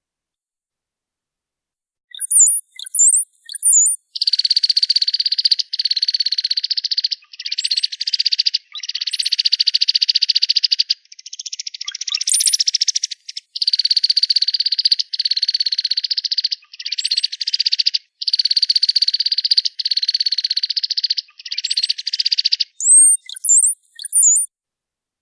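Cowbird song: thin, very high whistled notes that sweep quickly in pitch, heard about two seconds in and again near the end. Between them runs a long series of rapid buzzy trills in blocks of about a second or so, with brief gaps between blocks.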